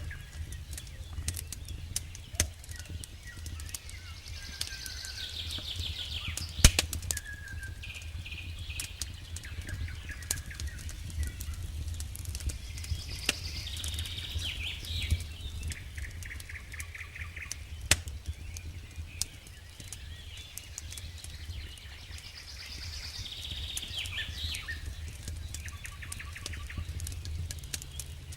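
Campfire wood crackling with scattered sharp pops, the loudest about seven seconds in, over a steady low rumble. A songbird sings a short repeated phrase of trills and falling notes about every ten seconds.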